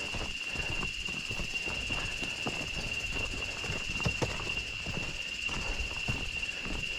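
Footsteps walking, a run of irregular soft knocks, under a steady high-pitched insect buzz.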